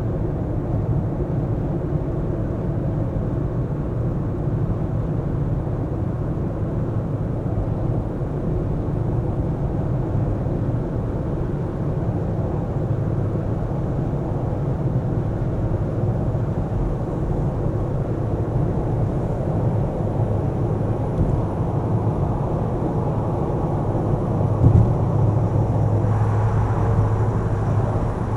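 A car being driven: steady low road and engine rumble, with a single thump about 25 seconds in, after which a lower hum grows stronger.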